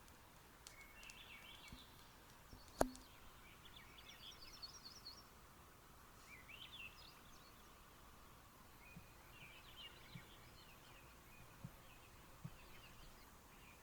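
Faint, scattered bird chirps and calls over quiet lakeside ambience, with a single sharp click about three seconds in.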